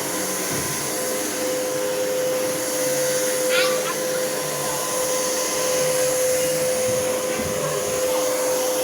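Miele bagged upright vacuum cleaner running on a low-pile carpet setting, giving a steady whine over the rush of air, with a brief high chirp about a third of the way in.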